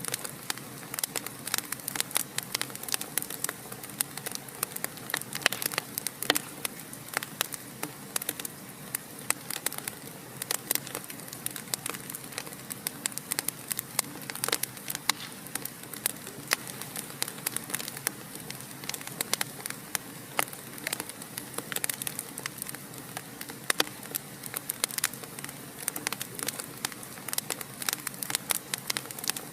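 Fireplace fire crackling, with many irregular sharp pops and snaps over a steady hiss.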